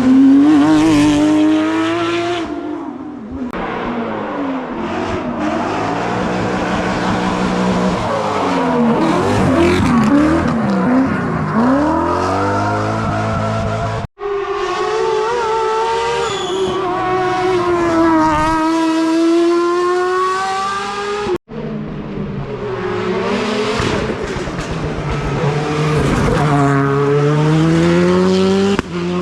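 Rally cars at full throttle on a tarmac hill-climb, engines revving up and dropping back through gear changes as they pass. Three separate passes, the first two cut off abruptly.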